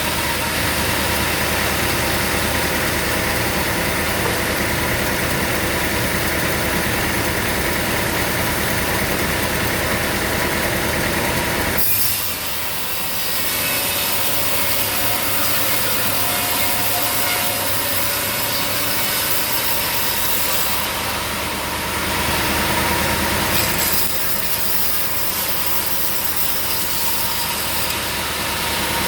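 Sawmill at work: a saw blade cutting through a log over the steady drone of the mill's engine. The sound changes abruptly about twelve seconds in, with the deep engine hum falling away, and shifts again about twenty-four seconds in.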